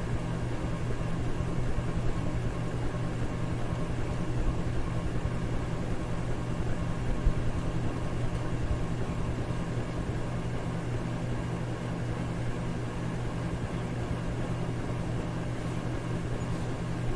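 Electric fan running at a steady speed: a constant rush of air over a low, even motor hum.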